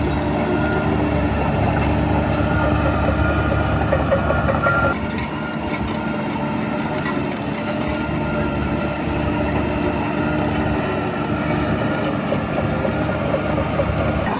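Heavy diesel earthmoving machinery running steadily under load. About five seconds in, the engine note drops and the sound eases.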